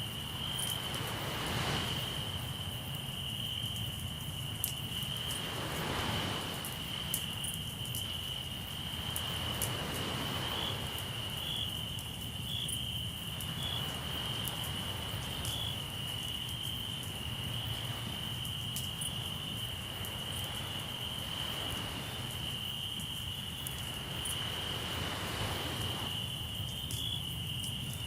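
Crickets chirping steadily in a continuous high trill, over sea waves washing in every few seconds and the sharp little crackles of a campfire.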